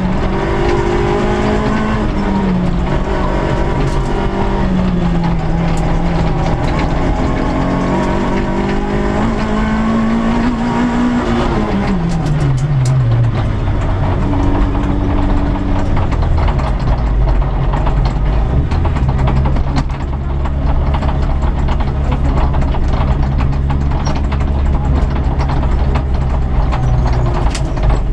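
Peugeot 106 S16 rally car's 1.6-litre 16-valve four-cylinder, heard inside the cabin, revving up and down through the gears. About twelve seconds in the revs fall away and the car slows, running at low revs with a heavy low rumble and many small clicks and rattles.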